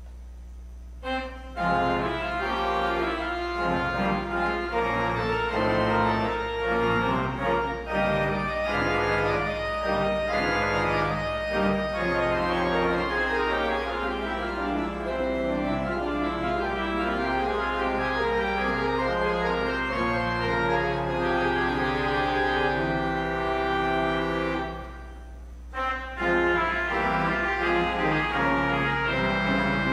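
Church organ playing a piece in held, changing chords, starting about a second and a half in and breaking off briefly near the end before resuming. A steady low hum runs underneath.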